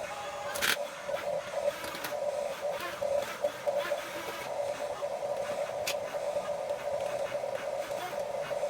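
Small electric motors and plastic gearboxes of a Huina 1550 RC toy excavator whirring steadily, with a few sharp clicks from the moving parts.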